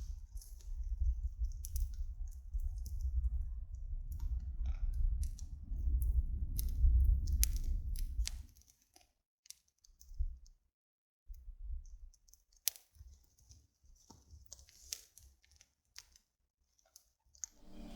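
A log fire (a nodya) crackling, with scattered sharp pops and clicks. A heavy low rumble runs under it for about the first eight seconds, then cuts off, leaving the crackle on its own.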